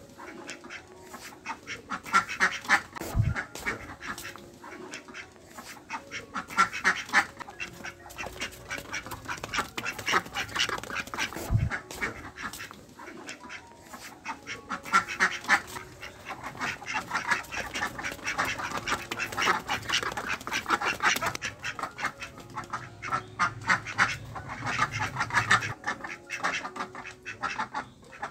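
Ducks quacking in a group, runs of quick, repeated quacks that come and go in clusters. Two brief low thumps are heard, a few seconds in and near the middle.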